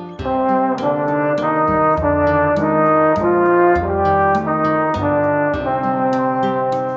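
A brass instrument playing a melody of held notes over a backing track with a steady drum beat and bass line.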